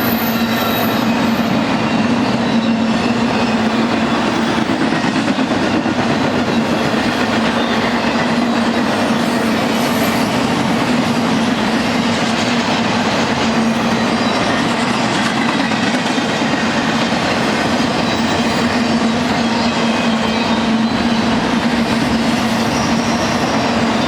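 BNSF freight train rolling past, its cars' wheels clattering steadily over the rail joints under a constant low hum.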